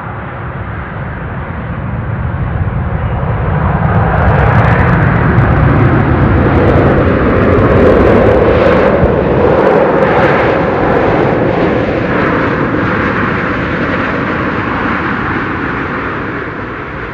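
Airliner passing close by during a takeoff or landing: a loud engine roar that swells over a few seconds, holds, then fades slowly, with a tone falling in pitch as it moves away.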